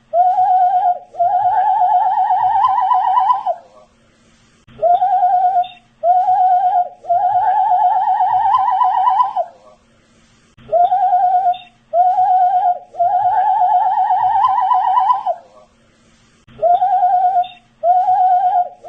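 A man whistling a short looped phrase: two brief notes followed by a longer, wavering note that slowly rises in pitch, repeating about every six seconds.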